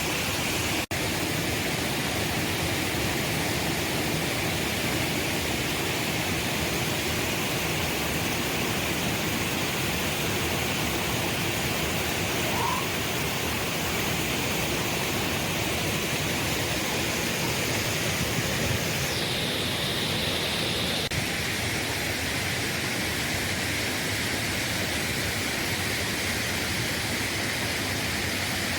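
Steady rush of falling water from a waterfall, an even hiss at one level throughout. Its tone shifts slightly about two-thirds of the way through.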